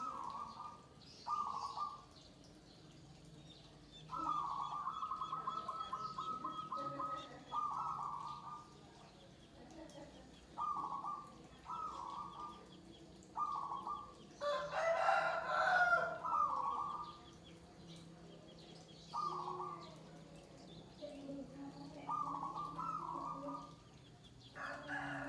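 Zebra doves (perkutut) cooing in repeated short phrases, one of them a long rapid trill, with a rooster crowing once about midway.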